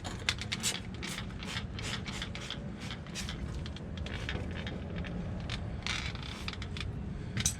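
Ratchet wrench working the 12 mm bolts on a driveshaft U-joint, a steady run of short raspy ratcheting strokes about three a second, with a sharper, louder click near the end.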